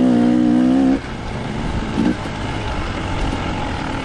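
Dirt bike engine running at steady revs, cutting off abruptly about a second in, followed by a quieter, rough rumbling noise.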